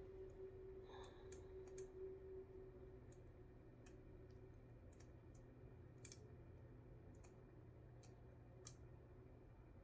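Near silence: the low steady hum of an electric cup spinner's motor turning a resin-coated wine glass, with scattered faint clicks.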